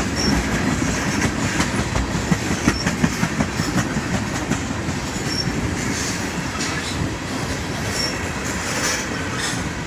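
Long freight train of propane tank cars rolling steadily past, its wheels clicking over rail joints, with short high wheel squeaks every two to three seconds.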